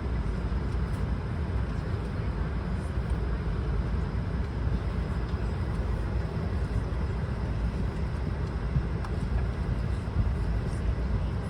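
Steady low rumble of cabin noise inside an Airbus A220 airliner.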